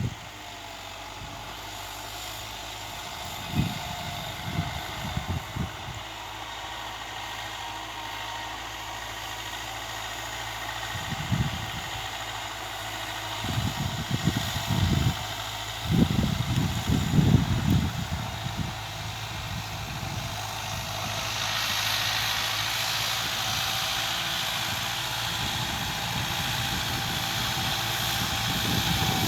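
A motor running steadily, growing louder and hissier about two-thirds of the way through, with several gusts of wind buffeting the microphone.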